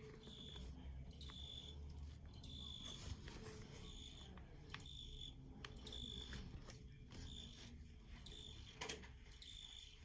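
Field cricket chirping: short, high chirps repeating roughly once a second, faint.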